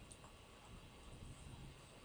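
Near silence: faint room tone and microphone hiss.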